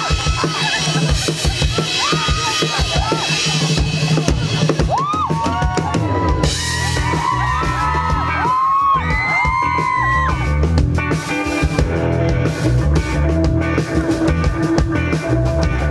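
A live rock band playing with a drum kit beating steadily and pitched instruments sliding between notes. A strong bass line fills out the low end from about five seconds in.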